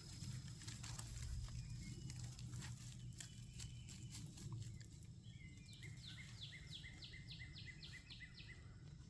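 A songbird calling a quick, even series of about a dozen short descending notes, roughly three a second, in the second half. Earlier there are scattered light clicks and rustles, with a faint low rumble throughout.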